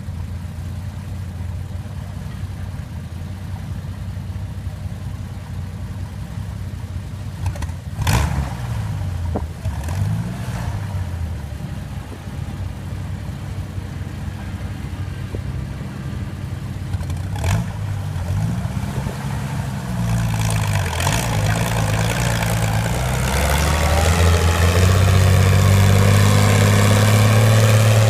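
Pulling tractor's engine running at idle, revved up and down twice with a sharp crack each time. It then winds up into a loud, sustained high-revving run in the last few seconds.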